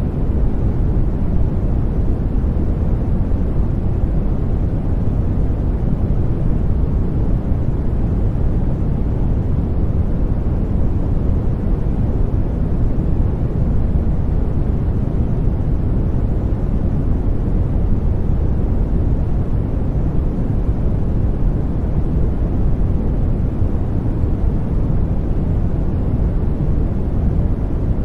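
Continuous white-noise sleep sound: an even, deep rushing noise, heavy in the low end with little hiss, that does not change.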